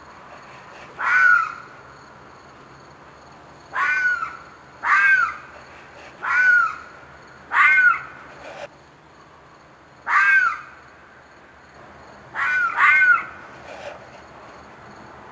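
An animal's short screeching calls, about eight of them, each about half a second and rising then falling in pitch, a few seconds apart with a quick pair near the end. The recordist takes it for a fox or a coyote, perhaps in distress.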